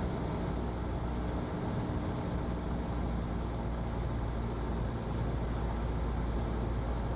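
Single-engine Cessna's piston engine and propeller droning steadily in the cockpit at reduced pattern power, about 1600 RPM, with a constant hiss of air over it.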